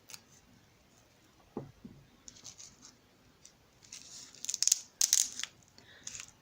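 Packaging being crinkled and torn open by hand in short bursts of rustling, loudest in the second half, as a wrapped crystal is unwrapped. A soft knock comes before the rustling starts.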